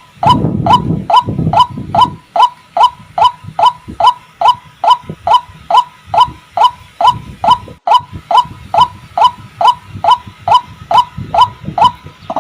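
White-breasted waterhen calling: a long, even series of short hooked notes, about three a second.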